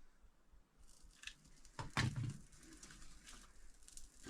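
A few light knocks and rustles of kindling and paper being handled at a wood stove, the loudest knock about two seconds in.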